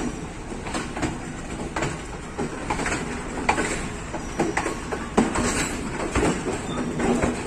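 Passenger train running on the rails: a steady rumble with irregular clanks and knocks from the carriage and wheels.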